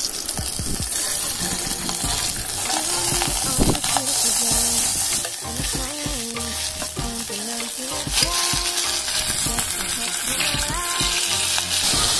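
Garlic and chicken pieces frying in olive oil in a stainless steel camping pot: a steady sizzle, with a few knocks of utensils against the pot.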